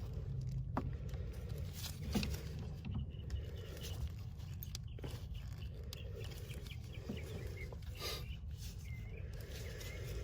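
A steady low rumble with a few faint clicks, and a few short bird chirps near the end.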